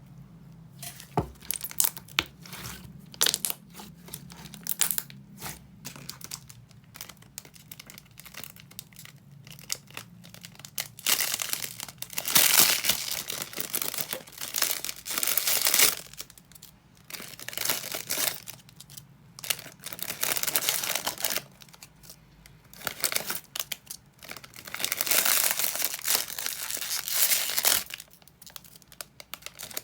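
Crinkling and rustling, as of something being handled close by, in irregular bursts with scattered clicks. The longest, loudest bursts come about twelve seconds in and again about twenty-five seconds in.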